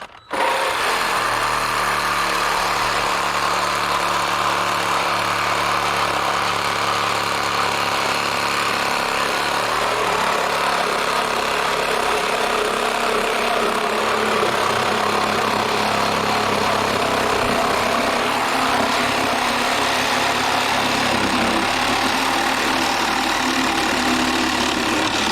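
An engine running steadily, a constant low hum under a broad hiss, starting and stopping abruptly.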